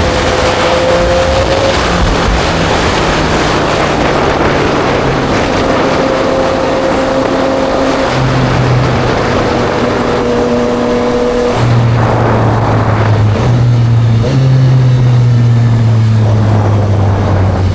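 2024 Yamaha MT-09 SP's inline three-cylinder engine running through a Spark full aftermarket exhaust, heard from the rider's seat at steady cruising revs, under a heavy wash of wind and road noise. The engine note steps up about eight seconds in and again a few seconds later, then slowly falls near the end.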